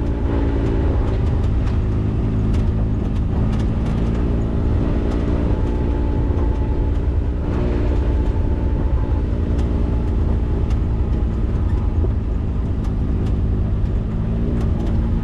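Engine of a Maverick 4x4 running steadily under load while climbing a dirt slope, its pitch shifting slightly, with scattered light ticks and rattles.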